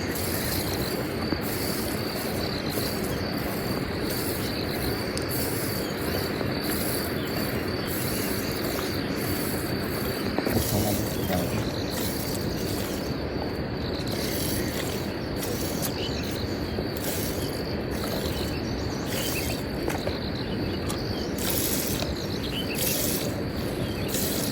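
Insects, crickets or similar, chirping steadily in a constant pulsing chorus, over a continuous rushing background noise.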